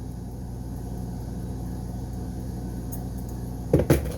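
A steady low hum, with a brief clatter of knocks near the end.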